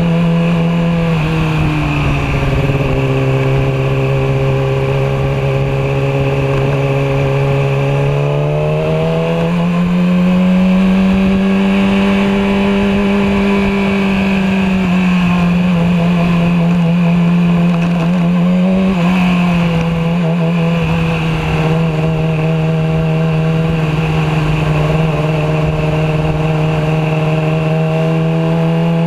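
Yamaha R6's inline-four engine running at a steady road speed, its note dipping about a second in, climbing higher around eight to ten seconds in, easing back down and holding steady, then rising again near the end. A steady rushing noise runs underneath.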